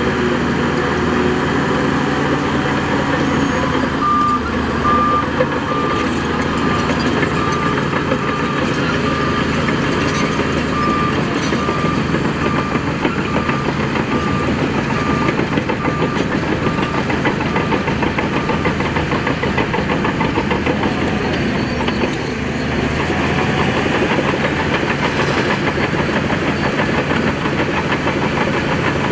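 Heavy earthmoving machinery's engine running steadily under work, with a reversing alarm giving a long run of evenly spaced single-pitch beeps from about four seconds in until about halfway through.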